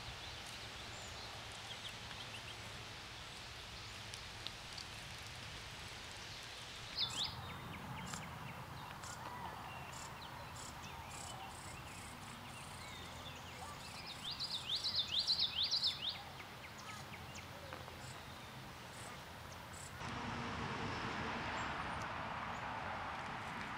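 Outdoor ambience with a bird calling: a single high falling note about seven seconds in, then a quick run of about eight short, high falling notes a little past the middle. The background hiss changes abruptly twice, about seven seconds in and near the end.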